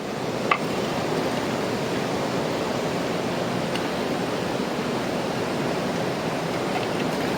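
Mountain river flowing: a steady rush of water, with one brief click about half a second in.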